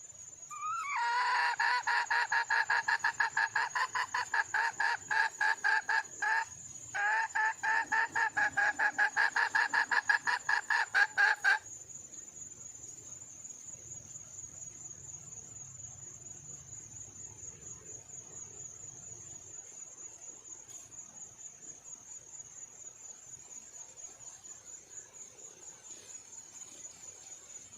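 Red junglefowl hen calling in a fast run of repeated clucking notes for about ten seconds, with a brief break midway, then stopping. This is the call a wild hen makes to attract a cock. A steady high cricket trill carries on underneath and after.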